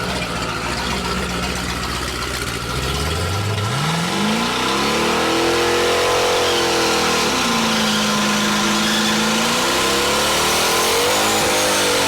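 A car engine idling low, then revving: its pitch climbs about three seconds in and holds high, drops back to a steady lower note around the middle, and climbs again near the end.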